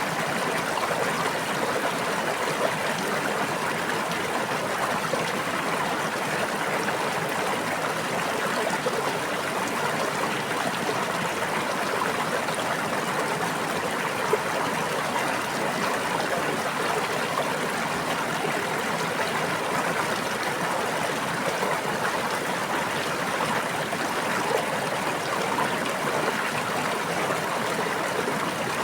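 Steady flowing water of a stream or brook, a continuous babbling with fine trickling detail.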